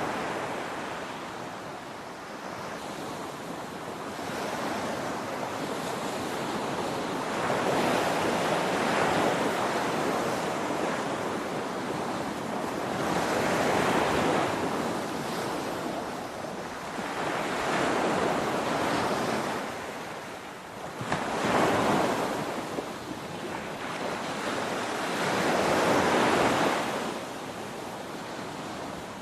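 Ocean waves breaking on a shore: a continuous rushing surf that swells and subsides every four to five seconds, with the loudest breaks about 14, 21 and 26 seconds in.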